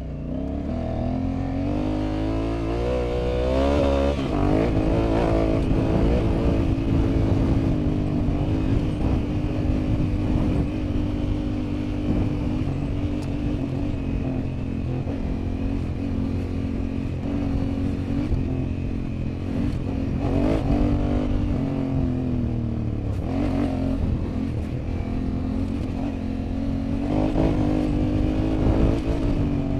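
Honda Africa Twin motorcycle engine under way, its note climbing in the first few seconds, then holding a steady pitch, easing off and picking up again about two-thirds through, and rising once more near the end, over steady wind rush.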